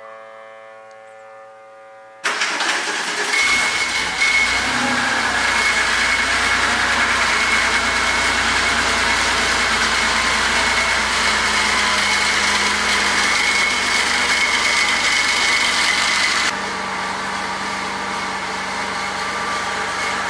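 Cold start of a 1992 Porsche 911 Carrera RS's air-cooled flat-six: after about two seconds of background music the engine starts suddenly, catches a second later and settles into a steady fast idle with a thin high whine over it. About sixteen seconds in the sound drops in level and runs on steadily.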